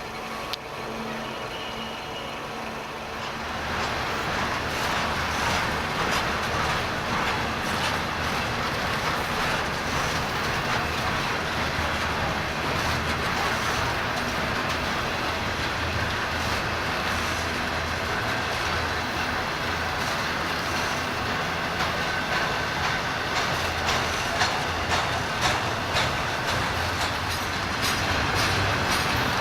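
Freight train cars rolling past: a steady rumble of wheels on rail that swells about three and a half seconds in, with wheel clicks over rail joints growing more frequent near the end.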